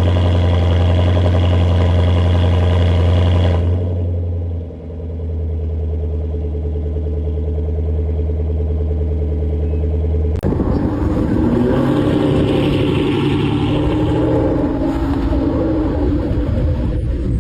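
Supercar engine sounds: a steady, deep engine note with a brief dip about four seconds in, then an abrupt switch about ten seconds in to another engine revving with a rougher, shifting note.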